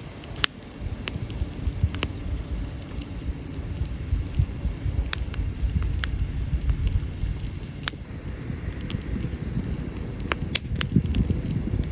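Wood fire crackling with sharp, irregular pops, a few coming close together near the end, over a steady low rumble.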